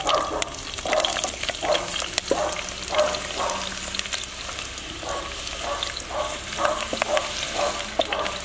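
Chopped onion and chili peppers dropping into hot oil in a pan and sizzling, with many small crackles. A wooden spatula scrapes them off a clay bowl in short repeated strokes.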